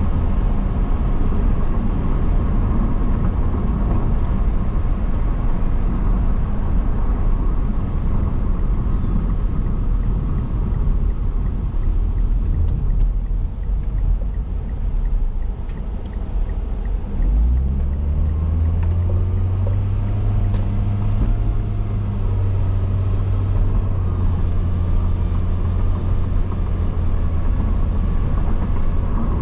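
Car driving, heard from inside: steady road and tyre rumble. A little past halfway an engine drone comes in, rises slightly in pitch as the car picks up speed, then holds steady.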